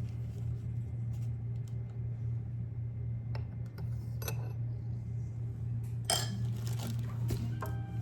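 Glassware and utensils clinking while sweet tea is mixed: a few sharp ringing clinks, then a louder clatter about six seconds in, over a steady low hum.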